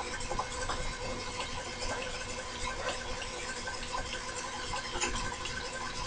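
Steady hum of a small machine-shop motor running, with an even hiss and scattered light clicks and taps of metal handling.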